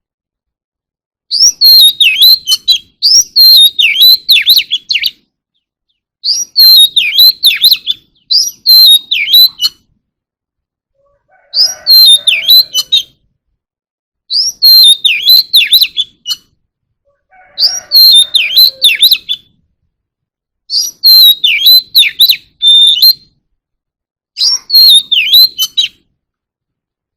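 Oriental magpie-robin singing: about eight loud, varied whistled phrases of a few seconds each, separated by short silent pauses.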